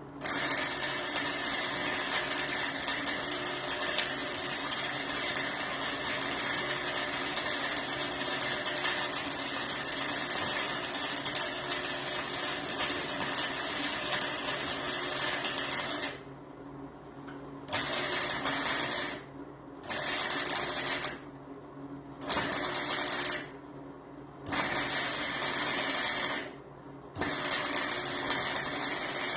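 Wire-feed (MIG) welder laying a weld: a steady crackling hiss for about sixteen seconds, then five short runs of a second or two each, starting and stopping abruptly, like stitch welds. A faint steady electrical hum continues under it and through the gaps.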